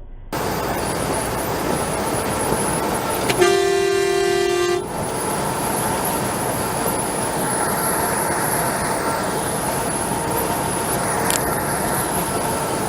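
Steady vehicle and road noise, with one vehicle horn blast of about a second and a half a few seconds in.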